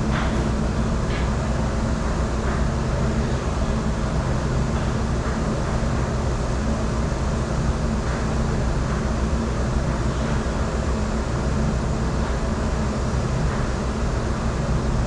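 Steady, loud running noise of commercial dish-room machinery, a low hum with a wash of noise over it, with a few faint clinks scattered through.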